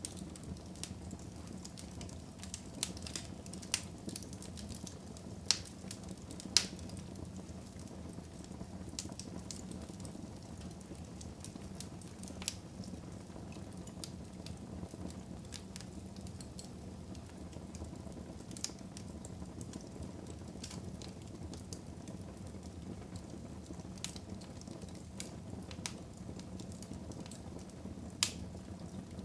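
Fire burning in a fireplace: a steady low rush of flames with scattered sharp crackles and pops. The loudest pops come about five to seven seconds in, with another near the end.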